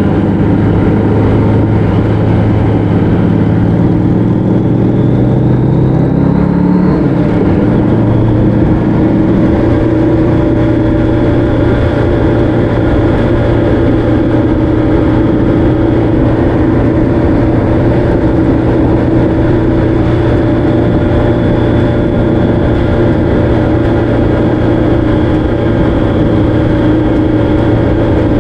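Vehicle engine heard on board while riding, over steady wind and road noise. The engine pitch climbs for a few seconds, drops sharply about seven seconds in like a gear change, then holds at a steady cruise.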